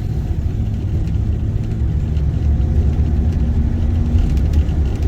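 Car engine and road rumble heard from inside a moving vehicle, a steady low drone with a faint hum that fades out about four seconds in.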